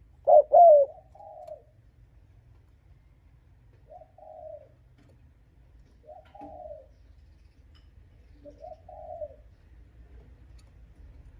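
Spotted dove cooing: two loud arching coos in the first second, then softer single coos about every two and a half seconds.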